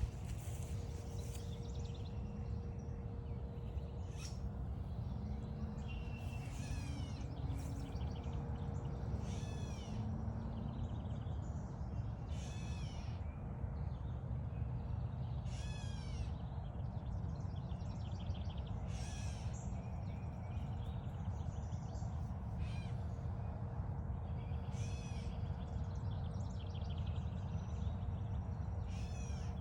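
A bird repeating a short, nasal, cat-like call about every three seconds, over a steady low rumble.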